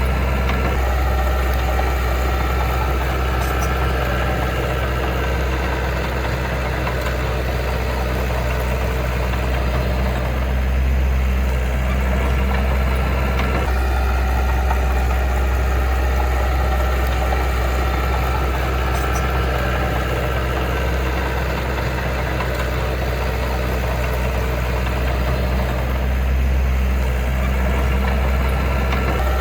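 Diesel engine of heavy earthmoving machinery running steadily at a low, even speed, with a strong low hum.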